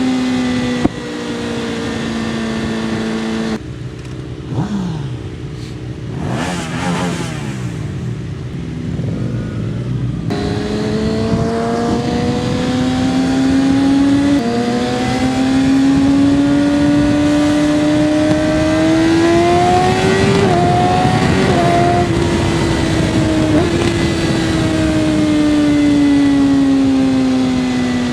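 Engines being revved hard and held at high revs. The pitch stays steady, then climbs slowly and eases back down, with sudden jumps where the sound changes from one engine to another. Early on there is a stretch of quicker rev blips that sweep up and down.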